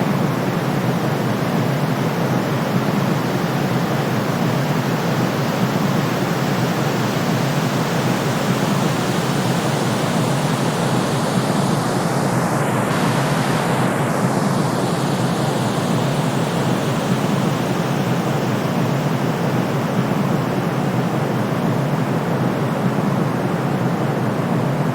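Steady white noise, deep and even, weighted toward the low and middle range, with no breaks. About halfway through, its upper hiss sweeps briefly and subtly in tone.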